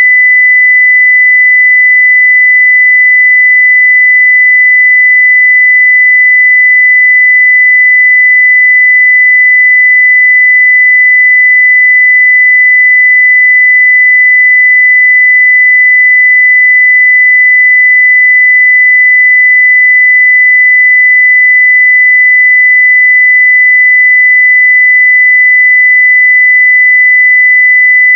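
Continuous 2 kHz sine-wave test tone at full level (0 dB), one pure steady pitch with no change.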